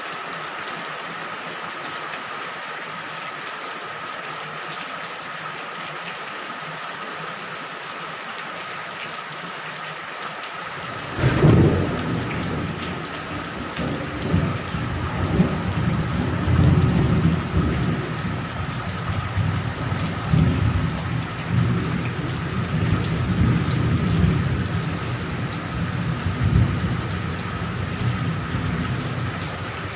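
Steady rain, then about eleven seconds in a sudden thunderclap followed by low thunder rolling on, swelling and fading in waves.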